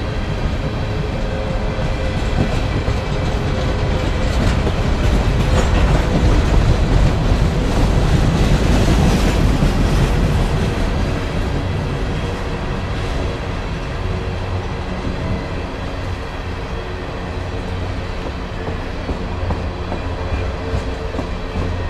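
Empty steel coal hopper cars rolling past on the rails: a steady rumble of wheels with a clickety-clack over the rail joints. It grows louder toward the middle and eases off after.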